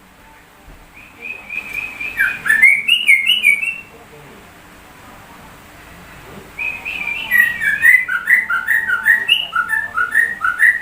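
Yellow-vented bulbul (trucuk) singing in two bursts of rapid whistled notes, a song filled with imitations of a white-rumped shama (murai batu).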